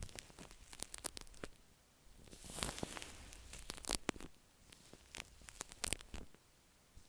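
Shaving cream being worked directly on an earphone microphone: close, crackly squishing with many sharp little clicks and pops, and a longer hissing rustle about two and a half seconds in.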